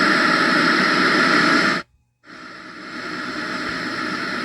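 Small Bluetooth soundbox speaker in FM tuner mode playing loud untuned radio static. The static cuts off suddenly about two seconds in, then fades back in and holds steady.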